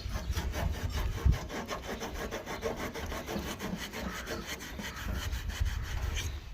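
Crumpled tin foil soaked in Coca-Cola being scrubbed quickly back and forth over rusty chrome, a steady rasping rub of several strokes a second as the rust is polished off.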